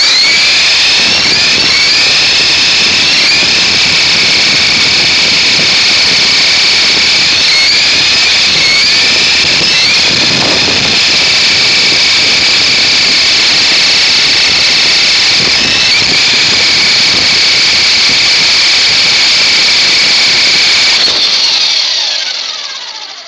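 Toy RC helicopter's motor and rotor running with a loud, high-pitched whine heard right up close. The pitch dips and recovers a few times as the throttle changes, and about 21 seconds in it winds down and fades.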